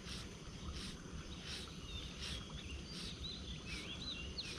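A songbird singing quick warbling phrases of gliding, up-and-down whistled notes, mostly in the second half. Underneath, a soft outdoor hiss swells in regular pulses about once every 0.7 s over a low rumble.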